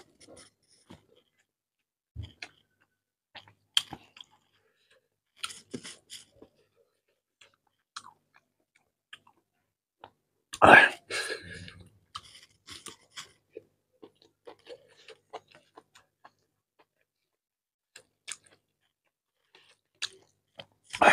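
Close-miked chewing and wet mouth clicks as a man eats rice and chicken curry with his fingers, the sounds short and scattered, with one louder noise about halfway through.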